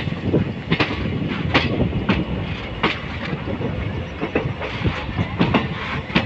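Passenger coaches of an Indian Railways express running at speed, heard from the coach doorway. The wheels clack sharply over rail joints at irregular intervals, about every half second, over a steady rumble.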